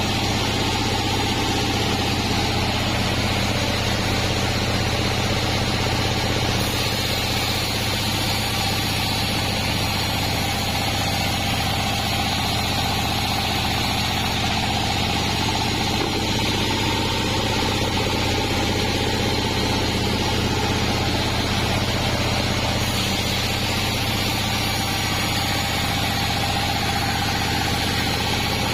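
36-inch band sawmill running with a steady mechanical drone and a hum that wavers slightly in pitch, as durian logs are sawn into beams.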